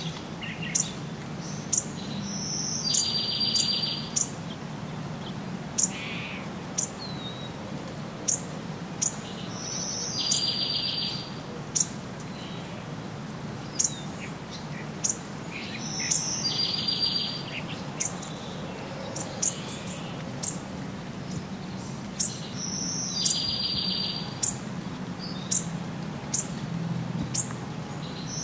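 A bird repeating the same short song about every seven seconds: a high note followed by a rapid buzzy trill lasting about a second. Sharp high ticks sound in between, over a steady low background noise.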